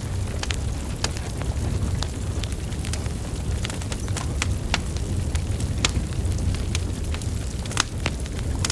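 Burning wood fire crackling: irregular sharp pops and snaps from the logs, several a second, over a steady low rumble of the flames.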